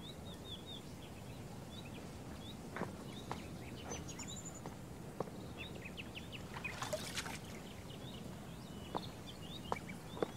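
Faint outdoor ambience with small birds chirping again and again, short high chirps, plus a few soft clicks.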